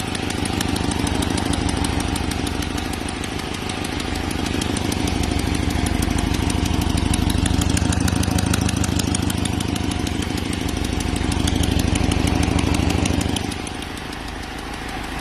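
Car engine running with a fast, even ticking, which the owner suspects could be an exhaust manifold leak. It gets quieter near the end.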